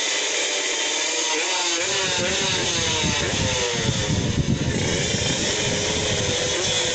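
Drag-racing motorcycle engines revving hard, their pitch rising and falling in several overlapping lines, growing heavier from about two seconds in.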